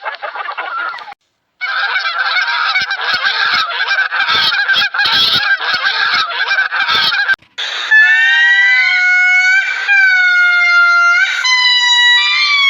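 A flock of fowl chattering, then from about halfway a goose giving several long, loud honks one after another.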